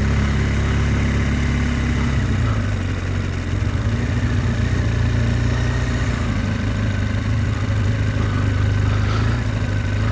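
BMW R1200 GS boxer-twin engine running steadily as the motorcycle is ridden, under a constant rush of road and wind noise. The engine note shifts slightly about two to three seconds in.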